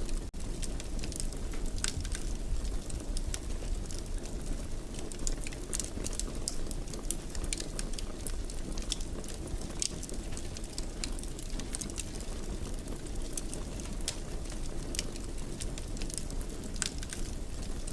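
Wood fire burning in a fireplace: a steady low rumble with frequent scattered crackles and pops. The sound cuts out for a split second just after the start.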